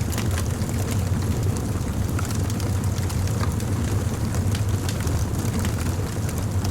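Wood fire crackling: a steady low rumble of the flames under frequent small, sharp pops and snaps at irregular times.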